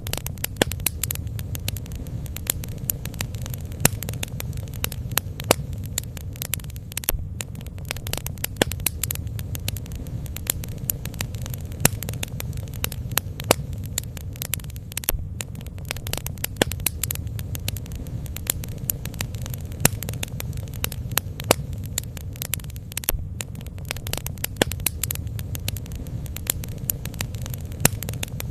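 Bonfire crackling: wood popping and snapping in many sharp, irregular clicks over a steady low rumble.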